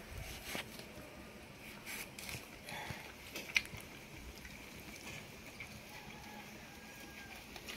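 Faint chewing of soft, sweet jackfruit flesh, with scattered soft mouth clicks and one sharper click about three and a half seconds in, over quiet background.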